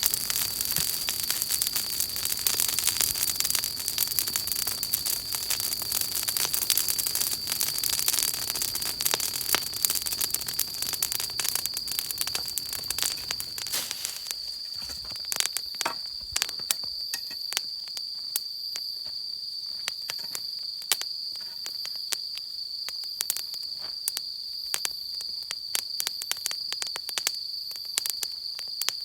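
Wood campfire crackling and popping, with a dense rushing hiss that drops away about halfway through, leaving sparser sharp pops. A steady high cricket trill runs underneath throughout.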